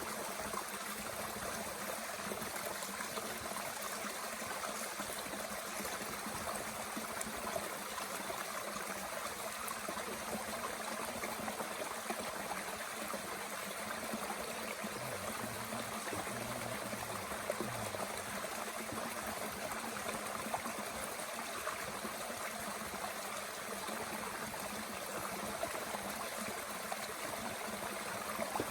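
Mountain stream running steadily, with a few faint sharp pops from a small wood fire burning in a Bush Box stove.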